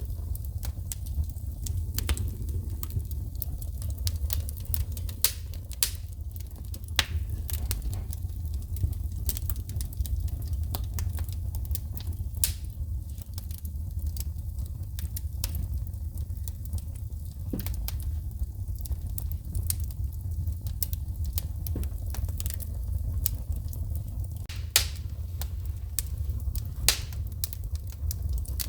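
Wood fire in a fireplace crackling, with frequent irregular snaps and pops of shooting sparks, a few of them sharp and loud, over a steady low rumble.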